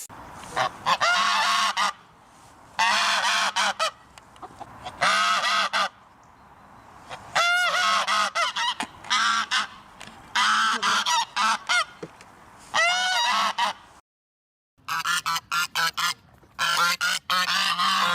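Geese honking in repeated clusters of short, loud calls a second or two apart. The calls break off to dead silence for under a second about two-thirds through, then return as a dense run of honks.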